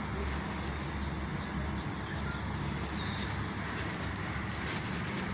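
Steady low rumble of a vehicle engine running, with a short high chirp about three seconds in.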